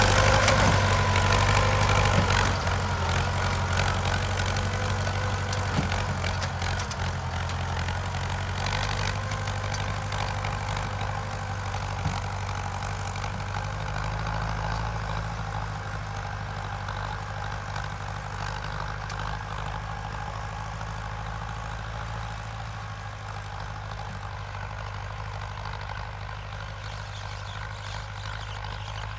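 Ford 6600 tractor's three-cylinder diesel engine running steadily while ploughing, gradually getting fainter.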